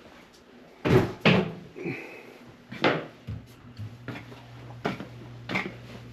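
Several sharp knocks and clunks of a door being handled, the loudest about a second in, over a steady low hum.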